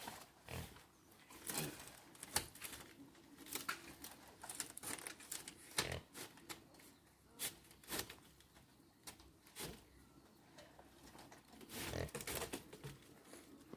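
Irregular rustling and crackling with scattered light clicks and knocks, some dozen short strokes at uneven intervals.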